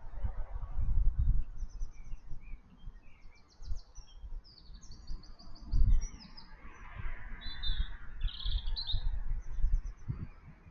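Small garden birds chirping in quick runs of high, repeated notes, over uneven low rumbling and thumps on the microphone, the loudest thump about six seconds in.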